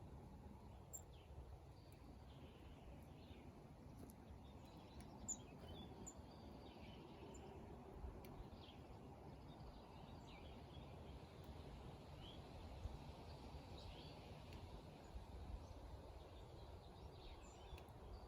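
Faint, scattered chirps and short calls of small songbirds, heard over a steady low background rumble.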